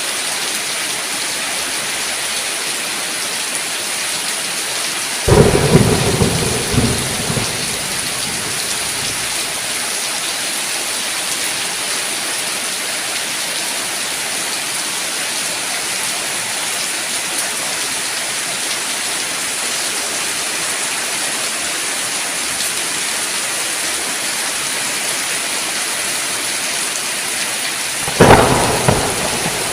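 Steady heavy rain hissing, with two sudden claps of thunder, one about five seconds in and one near the end, each rumbling away over a couple of seconds.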